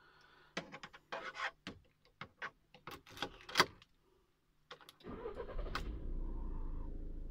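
A string of sharp clicks and rattles, then about five seconds in a car engine cranks briefly and catches, settling into a steady idle.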